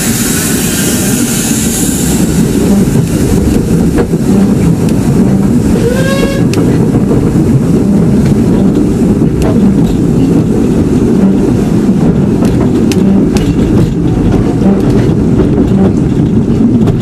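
A railway train running on the track: a loud, steady rumble with many short rail clicks, and a brief squeal about six seconds in.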